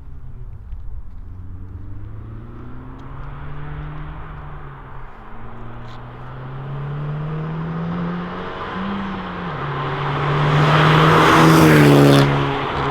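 Honda Civic Type R's turbocharged 2.0-litre four-cylinder, breathing through a catless downpipe and a Remus valved cat-back exhaust with the valves closed, accelerating in a pull past the listener. The engine note climbs and dips, then swells to its loudest as the car goes by near the end.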